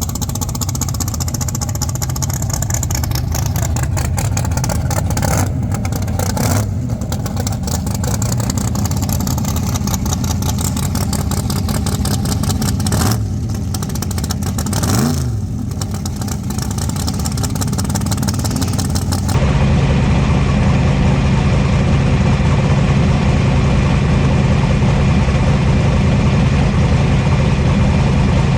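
Drag race car engines running loud, heard from inside the cars, with several brief dips in the engine note. About two-thirds of the way through, the sound switches abruptly to a steadier, deeper engine note that stays even.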